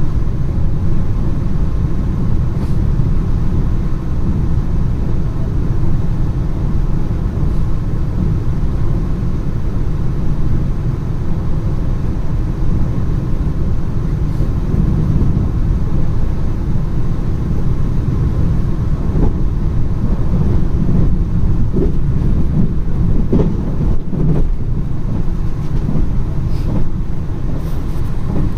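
A train running along the line, heard as a steady low rumble, with a few short knocks in the last third.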